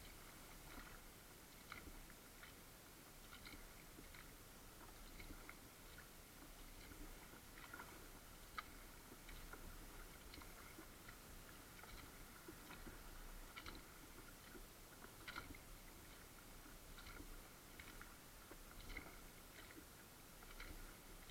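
Near silence from a paddled kayak: faint water drips and small splashes, ticking irregularly several times a second over a low steady hiss.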